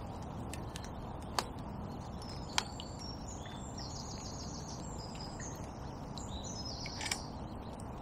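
A small bird sings a quick run of high chirping notes for about four seconds in the middle, over a steady outdoor background hiss. A few sharp clicks cut in, the loudest about one and a half and two and a half seconds in, and another near the end.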